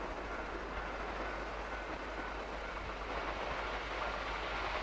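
Locomotive-hauled train approaching along the line: a steady rumble of running and rail noise, growing slightly louder in the second half.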